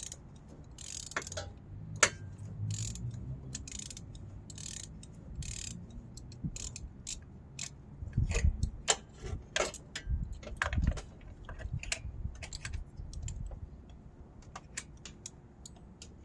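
Socket ratchet clicking in irregular runs as a spark plug is worked in the engine, with a few low knocks about halfway through.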